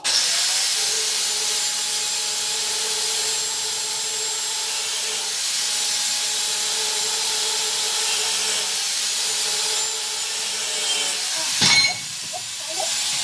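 Electric power cutting tool running under load as it cuts a piece of galvanized steel to length, starting abruptly with a steady hissing, humming sound. Near the end there is a brief loud clatter, after which the sound drops for about a second before the tool is heard again.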